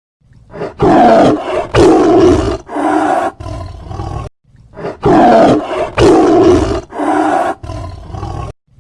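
Tiger roaring: a series of about five loud calls, a short break, then the same series again.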